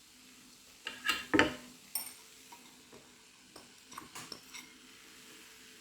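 A cooking utensil stirring and knocking against a frying pan as chopped vegetables are mixed into cauliflower rice. A few sharp knocks come about one to one and a half seconds in, then lighter clatter around four seconds.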